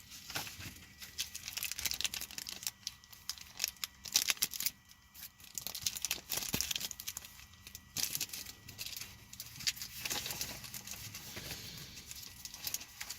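Mail package being opened by hand: paper and plastic packaging tearing and crinkling in irregular rustles and crackles.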